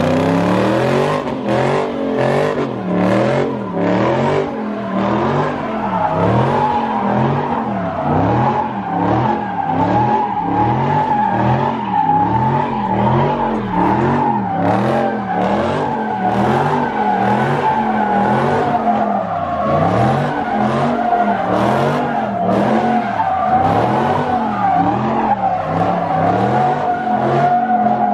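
A car spinning donuts with a continuous tire squeal, its engine pitch swinging up and down about once a second.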